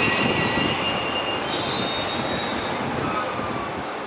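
Taiwan Railway train running past on the rails: a dense steady rumble of wheels on track, with a thin high wheel squeal that fades out about a second and a half in, the whole sound slowly getting quieter.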